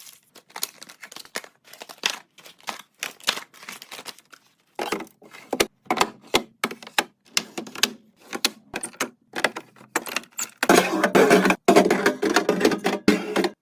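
Restocking handling sounds: packaged items and plastic containers tapped, clicked and set down in quick separate knocks. About eleven seconds in, the handling turns into a dense, louder stretch of rustling and clatter.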